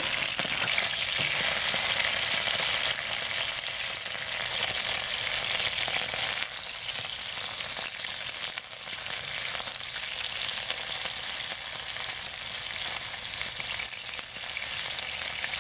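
Chicken pieces sizzling as they pan-fry in hot oil in a wok, stirred and turned with a slotted spatula. The sizzle is loudest in the first few seconds and eases a little about six seconds in.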